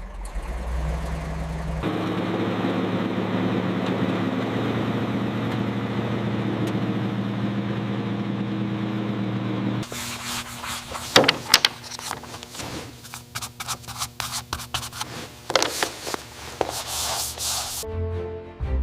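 A machine running steadily for several seconds. It is followed by a stretch of irregular sharp scraping and rubbing strokes that stops abruptly near the end.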